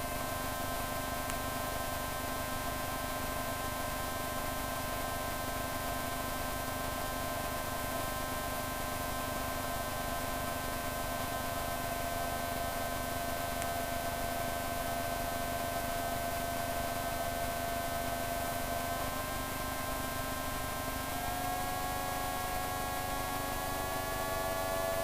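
Light aircraft engine drone heard through the headset intercom feed as a steady hum of several tones with a little static; the pitch steps slightly higher about 21 seconds in, as the engine speed changes.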